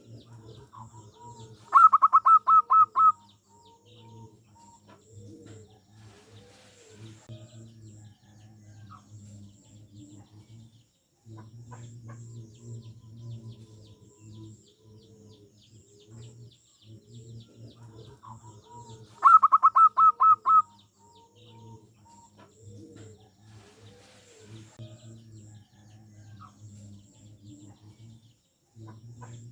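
Zebra dove (perkutut) singing: twice, a loud run of about six quick staccato notes, with softer cooing and faint high chirps of small birds in between.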